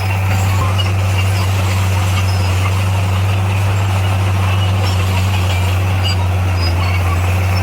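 Motor grader's diesel engine running at a steady speed, a constant low drone with no change in pitch.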